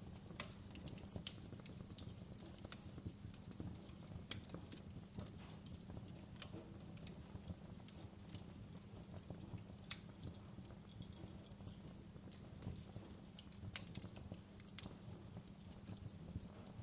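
Wood fire burning in a fireplace, crackling and popping at irregular intervals over a low, steady rumble of flames.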